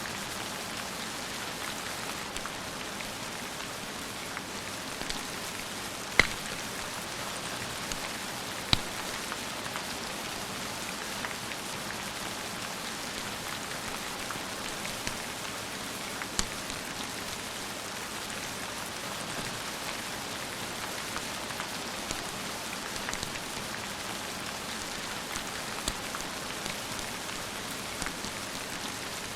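Steady rain with a few sharp crackling pops from a wood fire, the loudest about six seconds in.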